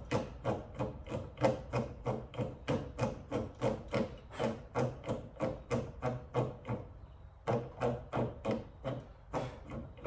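Hand pop-rivet tool worked in quick repeated strokes, about three to four a second, each with a creaking ring, setting rivets in a rear spoiler. The strokes break off briefly about seven seconds in.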